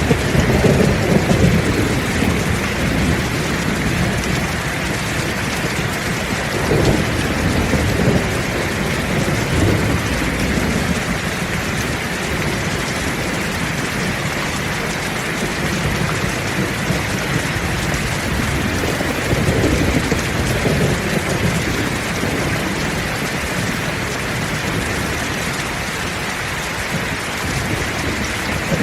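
Heavy rain falling steadily, with low rolls of thunder rumbling a few times: at the start, in the middle and near the end.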